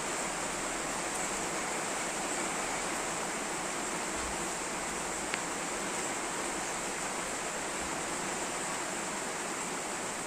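Steady rain falling, an even hiss, with one short sharp click about five seconds in.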